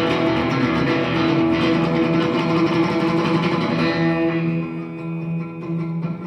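Live rock band playing an instrumental stretch led by electric guitar. The sound thins out and dips slightly about two-thirds of the way in, then comes back full near the end.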